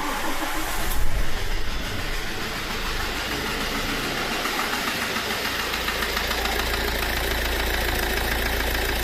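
Fiat Ducato van engine starting, flaring briefly about a second in, then settling into a steady idle with a knocking noise from inside the engine.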